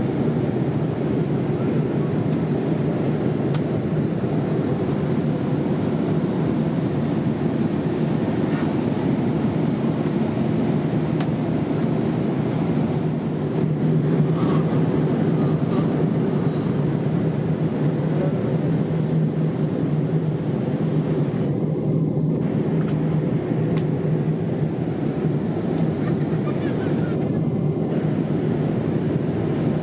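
Steady cabin noise of a Boeing 787-8 airliner in cruise: a constant low roar of engines and airflow with a steady low hum underneath.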